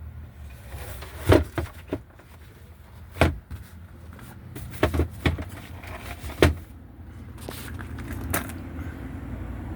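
A series of sharp clunks and knocks, about eight at uneven spacing and clustered in the first two-thirds, over a steady low rumble.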